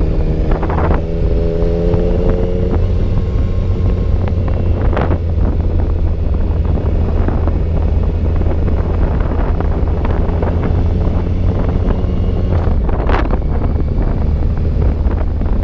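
Motorcycle riding at speed: wind rumbling over the microphone, with a steady engine note clear for the first few seconds. A few sharp knocks are heard about 1, 5 and 13 seconds in.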